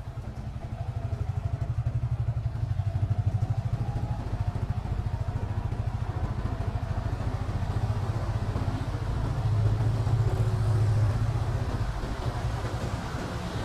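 Small motorcycle engine running at low speed, its exhaust a steady, even low putter that swells slightly as the throttle opens now and then.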